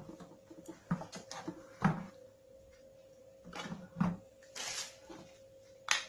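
Handling noises of a vacuum cleaner's plastic parts and power cord: scattered knocks and clicks, with a brief rustle just before five seconds and a sharper click near the end, over a faint steady hum.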